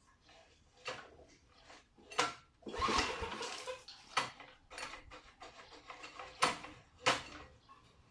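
Metal parts and tools clinking and knocking as they are handled, about eight separate knocks with a longer rattling clatter about three seconds in.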